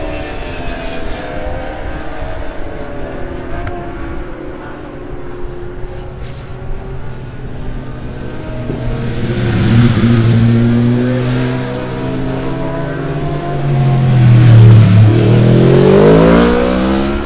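Superbike racing motorcycle engines running at speed on the circuit, with two louder passes. The first comes about halfway through; the second, the loudest, comes near the end, where the engine note drops and then climbs sharply as the bike accelerates hard.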